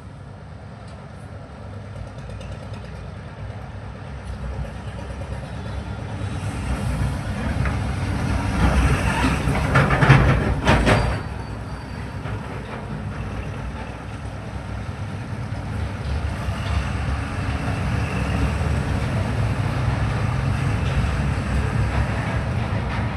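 Rumbling vehicle noise that builds to a loud peak about ten seconds in as a heavy vehicle passes, then settles back to a steady traffic rumble.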